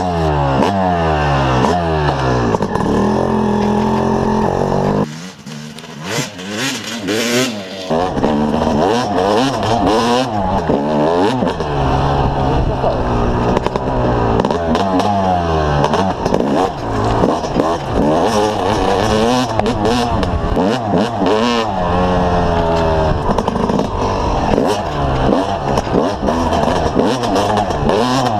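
Yamaha YZ250 single-cylinder two-stroke motocross engine revving hard under riding, its pitch climbing and dropping again and again as it runs up through the gears. It briefly eases off the throttle around five to eight seconds in, then pulls hard again.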